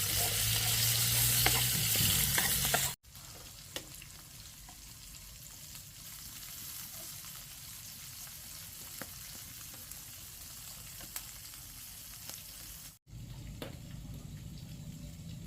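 Food frying in a pan and being stirred: a sizzling hiss with scattered crackles. It is loud for the first three seconds, then cuts abruptly to a quieter sizzle, with another abrupt cut near the end.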